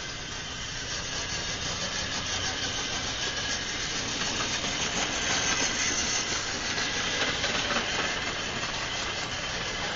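Model railway locomotive's small electric motor running, the loco travelling along its track with a steady whirring hiss that grows a little louder midway.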